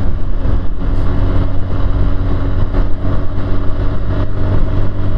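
Motorcycle engine running steadily while riding at road speed, a constant low drone.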